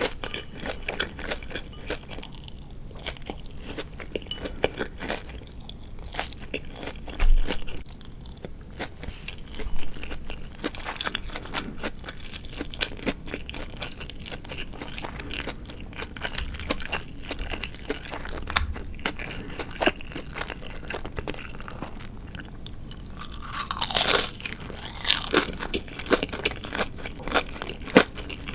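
Close-miked chewing of crisp deep-fried chicken (tatsuta-age), a dense run of crunches and small mouth clicks with a few louder bites. Near the end there is a brief sound that slides down in pitch.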